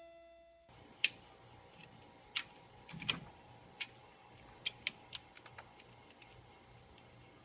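A handful of irregular, sharp clicks or taps, about eight of them over five seconds, faint under a low background; the tail of a held music chord cuts off just before they start.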